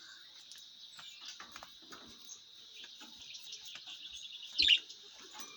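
Small birds chirping and twittering in quick, short notes, with one louder burst of chirps about four and a half seconds in.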